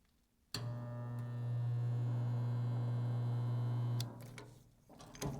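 Spot welder's transformer humming loud and steady as it heats a weld on sheet-steel floor pan. The hum starts suddenly about half a second in and cuts off at about four seconds. The welder thinks this weld was made with too much pressure, which left a dimple in the panel.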